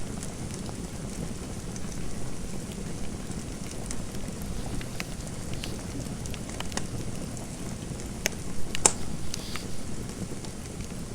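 Wood fire crackling in a fireplace: a steady low rumble of burning with scattered sharp pops, the loudest a little before the end.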